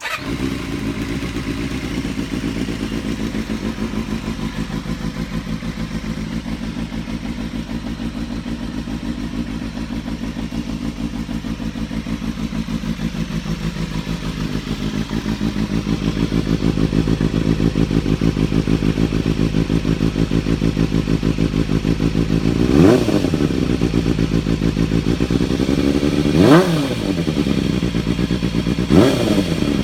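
Suzuki Bandit 250 inline-four motorcycle engine with an aftermarket Akrapovič exhaust, starting up suddenly and idling steadily, the idle rising a little about halfway through. Near the end the throttle is blipped three times, each rev rising and falling quickly.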